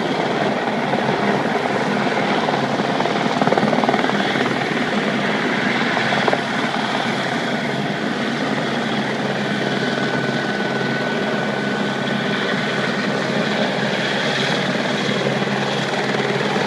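Helicopter flying, a steady rotor and engine noise that holds without a break.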